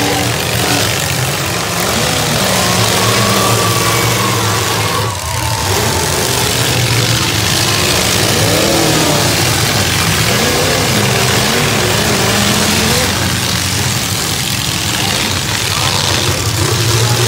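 Engines of several full-size demolition derby cars running and revving together, their pitch rising and falling as the drivers gun them.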